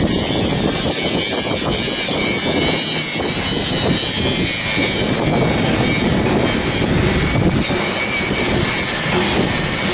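Steady, loud mechanical noise from machinery running, with faint high steady whines mixed in.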